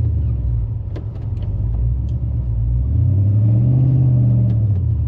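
Pickup truck's 6-litre engine with a hot camshaft working under load as the stuck truck and trailer try to pull free; the engine revs up about three seconds in and eases back off near the end.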